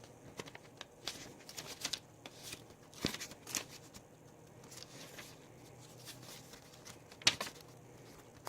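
Paper rustling with scattered light taps and clicks as the pages of a handmade paper mini album are handled and turned; the sharpest clicks come about three seconds in and again near the end.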